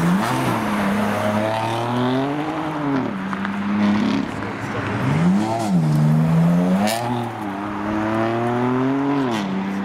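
Single-turbo BMW M4's straight-six engine accelerating hard, its note climbing in pitch and dropping sharply at gear changes several times as the car pulls away.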